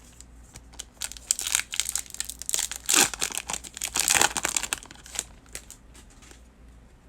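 A trading-card pack's wrapper being torn open and crinkled by hand: a run of crackling rustles from about one to five seconds in.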